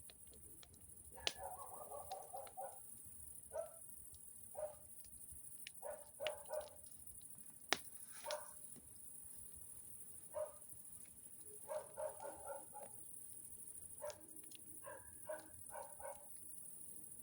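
Short animal calls repeated in quick clusters, with a few sharp clicks among them.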